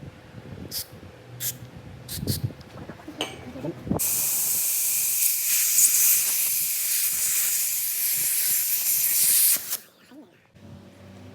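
A steady, loud hiss of pressurised spray or air, about five and a half seconds long, starting about four seconds in and cutting off sharply. A few light clicks and handling taps come before it.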